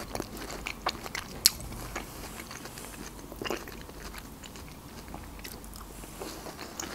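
A person chewing pieces of fresh melon with the mouth closed: soft chewing with scattered short clicks, the sharpest about a second and a half in and a few more together halfway through.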